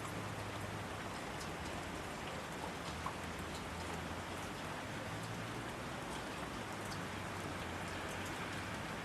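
Steady rain falling, with scattered individual drops ticking distinctly through the even hiss.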